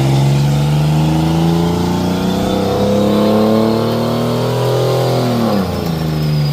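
Pickup truck engine held at high revs under load, its pitch creeping up for about five seconds, dropping sharply, then climbing again as the throttle comes back on.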